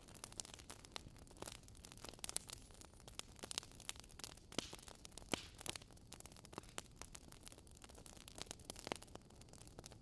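Wood logs burning in a fireplace, crackling and popping irregularly, several small snaps a second with a few sharper pops, over a faint steady hiss.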